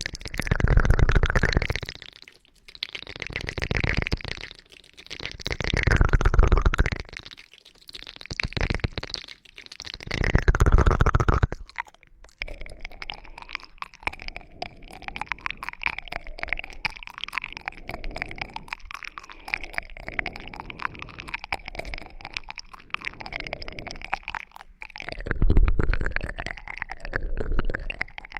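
Close-miked ASMR ear-cleaning sounds: dense crackling and scratching that swells and fades about every two and a half seconds, then from about twelve seconds in a softer, steadier rubbing with a ringing tone, swelling loud again near the end.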